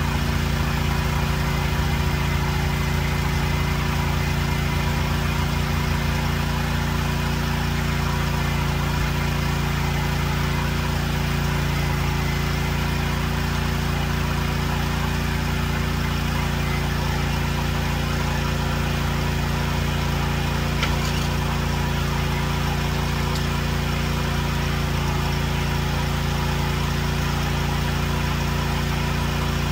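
Cub Cadet tractor engine running at a steady speed, with an even, unchanging engine note.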